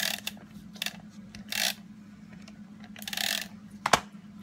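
Tape runner (Teresa Collins Mega Runner) drawn across paper in about four short scraping strokes as adhesive is laid down, with one sharp click near the end.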